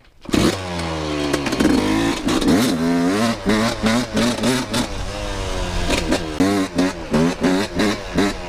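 Yamaha YZ125 two-stroke dirt bike engine revving. The pitch climbs and falls over the first few seconds, then a quick run of repeated rev blips follows, about two or three a second.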